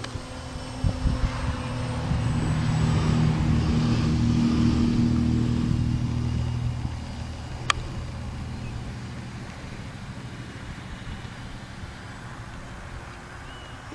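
Radio-controlled model plane making a low pass: its motor and propeller drone swells, peaks and fades as it flies by. A single sharp click comes just after the pass.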